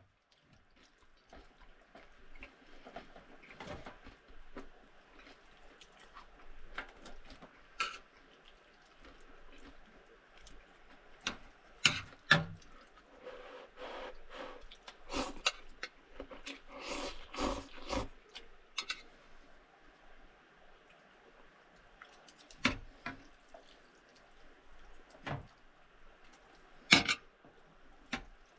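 Water splashing and dripping, with scattered knocks and clinks of things being handled; the clinks cluster in the middle and there is one sharp knock near the end.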